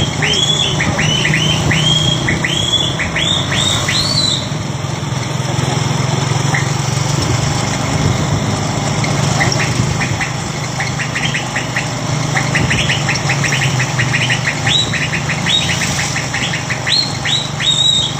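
Truck engine running steadily with a low hum, under runs of quick, high chirps repeated several times a second: one in the first few seconds and another from about nine seconds on.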